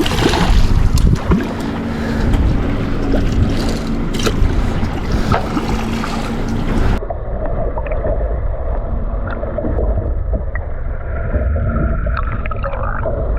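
Boat engine running with wind on the microphone and water sloshing against the hull; about seven seconds in the sound turns abruptly duller, its high end cut off, and carries on steadily.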